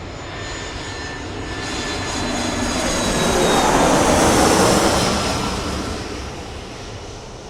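Jet airliner flying past: a rushing engine roar swells to its loudest about halfway through, then fades away. A thin high whine sinks slowly in pitch as it passes.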